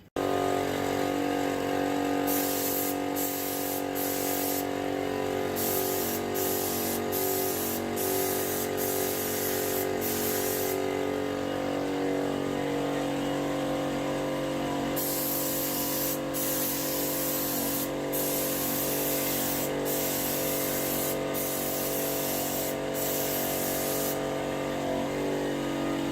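Paint spray gun hissing in many short bursts as the trigger is pulled and released, with a pause of a few seconds midway. Underneath, a generator engine drones steadily.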